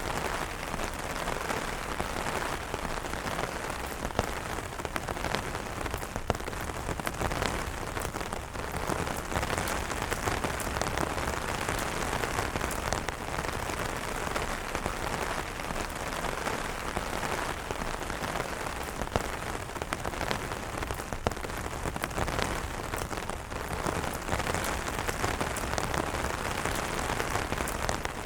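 Steady rain pattering on umbrella fabric: a dense, even patter with many individual drop taps standing out.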